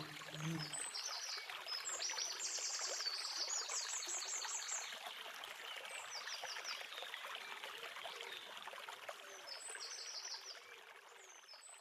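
Running stream, a steady splashing hiss, with small birds singing in short, rapid trills over it. The sound fades out near the end.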